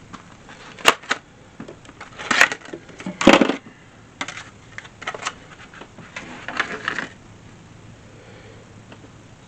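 Clicks, clacks and short rattles of small hard parts being handled while wiring, a burst of clatter about two and a half and again three and a half seconds in, stopping after about seven seconds.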